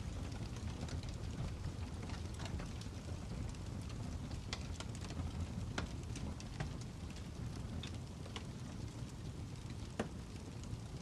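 Wood fire crackling: a steady low rumble with irregular sharp pops and snaps, the loudest pop about ten seconds in.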